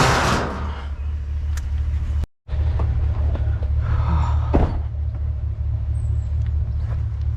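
Truck running with a steady low engine and road rumble, with a loud rush of noise at the start, a brief cut to silence about two seconds in, and a single sharp knock about four and a half seconds in.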